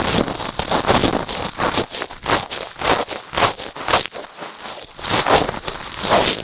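Cotton swab rubbing and scraping inside the silicone ear of a binaural microphone, picked up very close: repeated scratchy, crackling strokes, two or three a second, with a brief lull about four seconds in.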